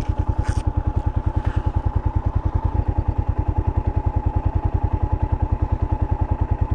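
Honda XL500's single-cylinder four-stroke engine idling steadily, an even beat of about a dozen pulses a second.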